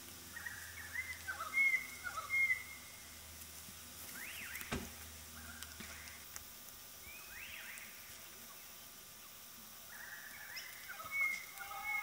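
Birds calling: short whistled and chirping notes that sweep up and down in pitch, loudest about two seconds in and again a second before the end, with one sharp click near the middle.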